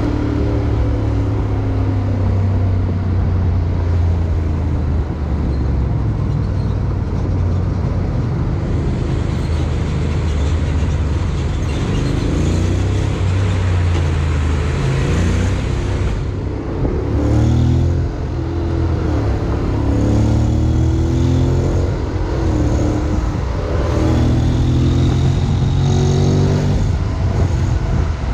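Honda X-ADV 750's parallel-twin engine running while riding, with wind and road noise. In the second half the engine note rises and falls in pitch several times as it speeds up and eases off.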